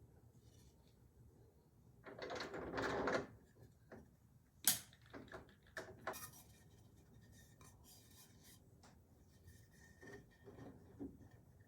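Workbench handling sounds: a scraping rub lasting about a second, two seconds in, then one sharp click and a scatter of lighter clicks and knocks, as of wood pieces and screw hardware being handled.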